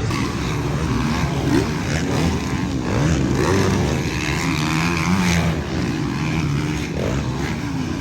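Several motocross dirt bike engines revving, their pitch rising and falling over one another.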